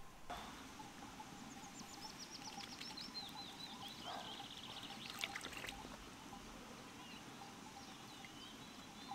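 A small songbird singing a quick run of descending high notes that ends in a rapid trill, over a faint steady hiss of running water. A few soft clicks come about five seconds in.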